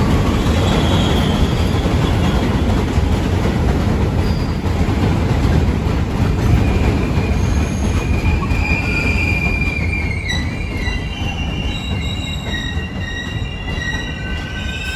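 Metro-North Hudson Line train rolling past with a heavy rumble that slowly eases off. From about halfway through, high steel wheel squeal joins in, several thin whistling tones that grow more numerous near the end.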